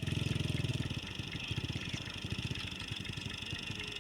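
A vehicle engine idling with a steady, rapid, even pulse, a little fuller in the first second.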